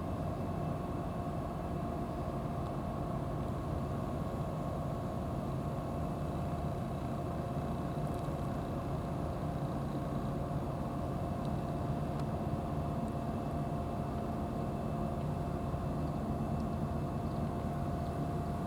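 A steady mechanical hum: a low rumble with a few steady tones above it, unchanging throughout.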